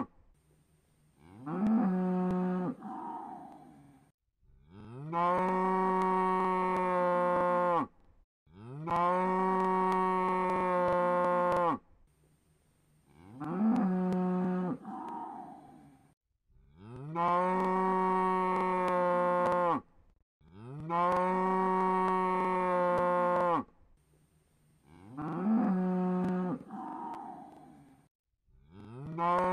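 Cow mooing again and again as a repeating loop: a shorter moo that rises in pitch and breaks off, then two long, steady moos, the same three calls coming round about every twelve seconds.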